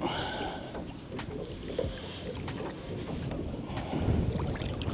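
Wind buffeting the microphone, an uneven low rumble, with a few light clicks and knocks.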